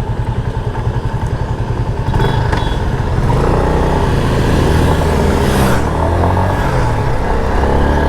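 Motorcycle engine running under way, with road and air noise, its pitch shifting and rising over the second half as the bike speeds up.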